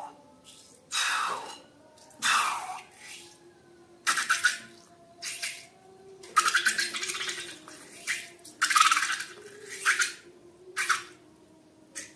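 Wet slime squelching in about a dozen short, irregular squishes.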